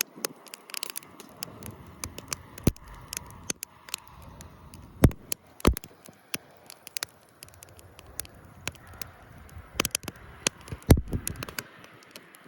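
Wood campfire crackling and popping, with a few louder sharp pops, the loudest about eleven seconds in.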